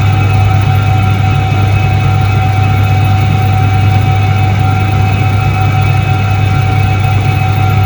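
1978 Soviet Iset-3 washing machine running steadily: a loud, even low motor hum with a few steady higher tones over it, unchanging throughout.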